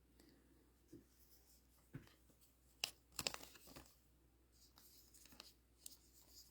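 Faint rustling and light clicks of trading cards being handled and sorted, in a few short bursts with the busiest stretch about three seconds in.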